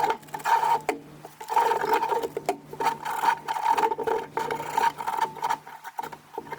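Rapid, repeated scrubbing and rubbing strokes on the old Coleman lantern's metal as the grime is cleaned off, with a faint steady hum underneath.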